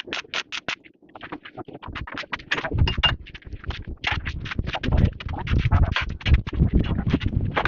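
Rapid repeated scraping strokes, about six a second, that break off just under a second in. They give way to uneven scraping and rasping with heavier low knocks and thuds through the rest.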